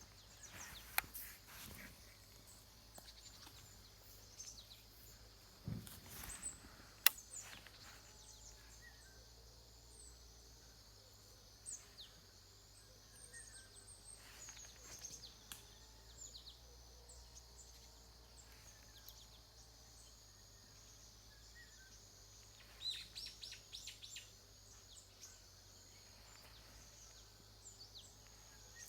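Faint outdoor ambience with scattered bird chirps and a few sharp clicks and rustles.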